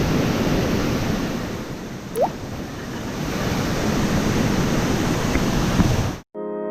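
Steady rushing roar of a waterfall, with one short rising whistle-like tone about two seconds in. Near the end it cuts off abruptly and calm background music begins.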